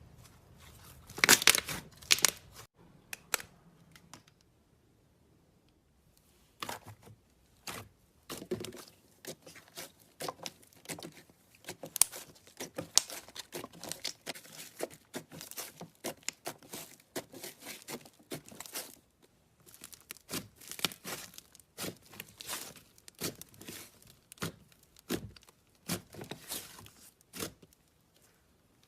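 Slime being squished and pulled apart, giving irregular crackling and popping. A loud cluster of pops comes about a second in, then a short pause, then a long dense run of small crackles.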